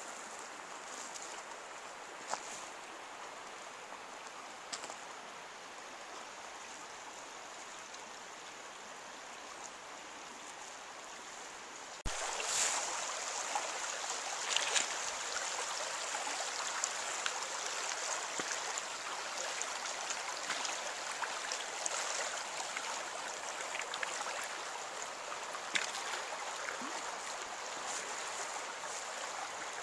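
Rushing water, a steady hiss that gets abruptly louder about twelve seconds in.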